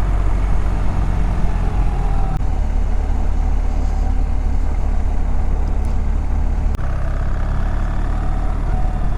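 BMW GS boxer-twin motorcycle engine running at a steady cruise in fourth gear at about 50 km/h, with road and wind noise. The tone of the engine changes abruptly twice, about two seconds in and again near seven seconds.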